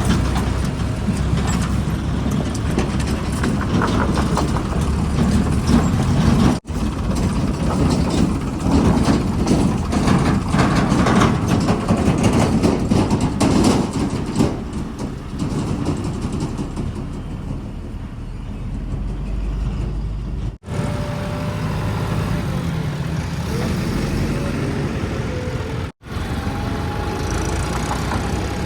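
Heavy diesel engines of earth-moving and farm machinery running and working, a continuous engine din broken by three brief dropouts. A faint whine rises and falls in the last few seconds.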